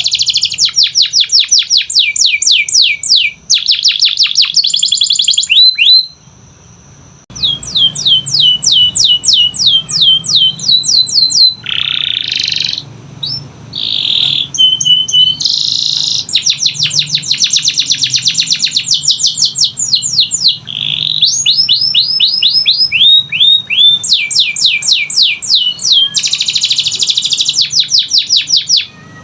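Domestic canary singing: long, fast trills of rapidly repeated high notes, switching from one trill pattern to the next every second or two. The song breaks off briefly about six seconds in, then resumes.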